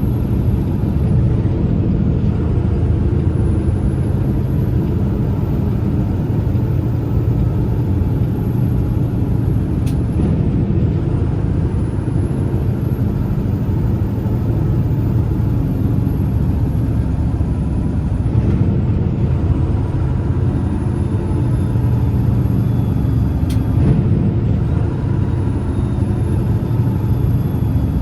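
Heavy loaded semi truck's diesel engine running steadily under way, with a thin high whine that drops away and climbs back three times.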